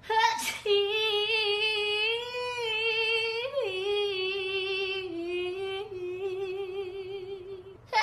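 A woman singing one long held note without accompaniment, the pitch wavering with vibrato and stepping down slightly a couple of times along the way.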